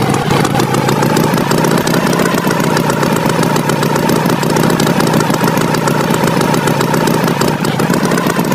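Cartoon tractor engine sound effect running steadily at a constant pitch.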